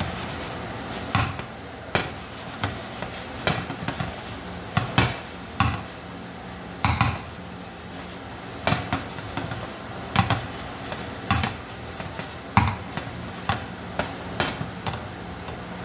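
Chicken pieces frying in oil in a worn skillet that is no longer non-stick, stirred so they won't stick: a utensil clacks and scrapes against the pan about once or twice a second, irregularly, over a steady sizzle and a low hum.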